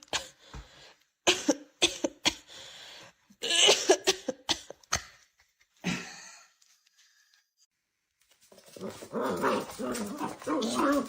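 Dog vocalizing: a string of short, sharp barks and huffs through the first half, then after a pause of about two seconds a continuous wavering whine-and-moan, the dog's drawn-out 'talking back'.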